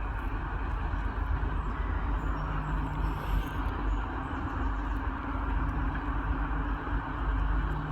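Class 43 HST diesel power car's engine running steadily, a continuous hum over low rumble.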